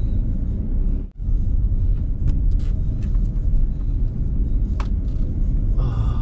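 Steady low rumble of a car on the move, heard from inside the cabin, with a brief break about a second in and a few faint clicks.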